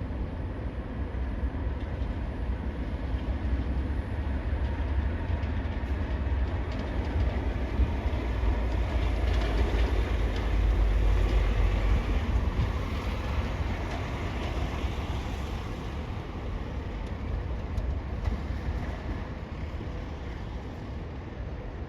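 A heavy vehicle passing with a deep rumble and some clatter, growing louder to a peak about halfway through and then fading.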